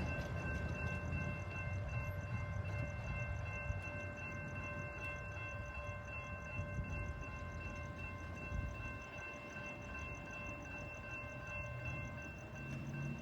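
Train passing, a low rumble with several steady high tones held together over it, which stop near the end.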